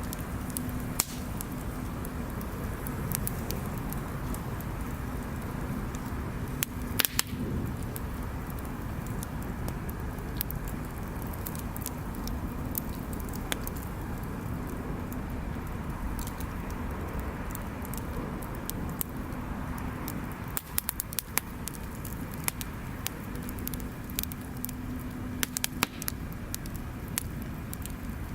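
Wood bonfire crackling, with irregular sharp pops, a few louder ones about seven seconds in and near the end, over a steady low rumble.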